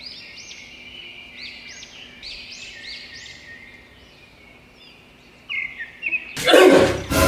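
A bird calling with a repeated rising-and-falling chirp, about two a second, over a faint steady hum. The calls thin out after about four seconds, and near the end a loud, sudden burst of sound cuts in.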